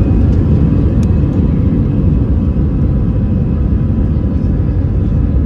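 Cabin noise inside an Airbus A320-214: a loud, steady rumble of the jet engines and airframe, with a faint steady whine above it.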